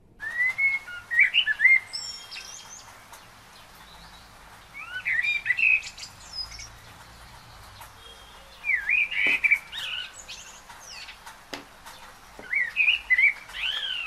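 Bird chirping in four short bursts of quick twittering calls, about four seconds apart, over a steady hiss, with a few faint clicks in between.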